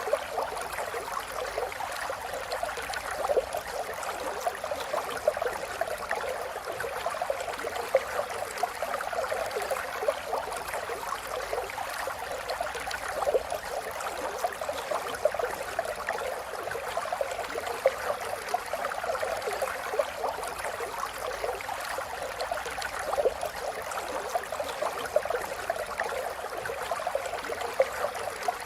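River water flowing steadily over rocks, a continuous babbling and splashing with many small irregular splashes.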